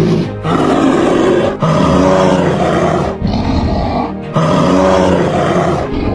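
A large animal roaring in four long, rough calls, each rising and then falling in pitch, with short breaks between them.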